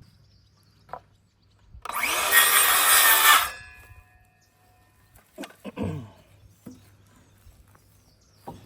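Electric power saw spinning up and cutting once through a wooden board, about a second and a half of cutting, then the blade winding down with a fading whine. A few light knocks of wood follow.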